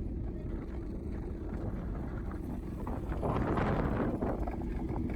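Wind rumbling on the microphone, with a louder rush of noise about three seconds in.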